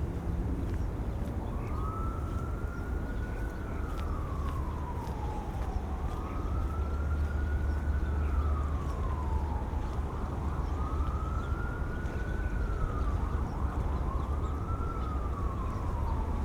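Emergency-vehicle siren in a slow wail, rising and falling four times at about four seconds a cycle, over a steady low rumble of wind.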